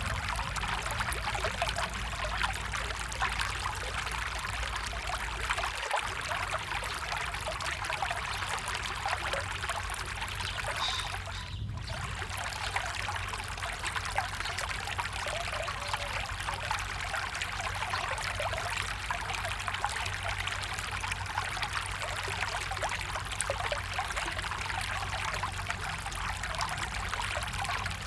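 A stream's water running and trickling steadily.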